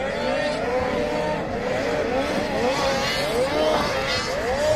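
Several racing snowmobile engines revving, their pitch climbing and dropping again and again and overlapping as the machines accelerate and let off.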